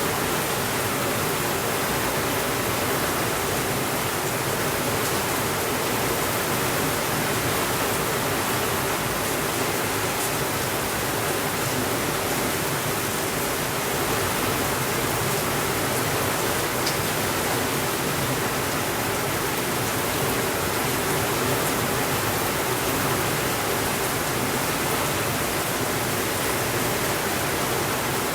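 Steady rainfall, an even hiss with no change in level, with a couple of faint clicks.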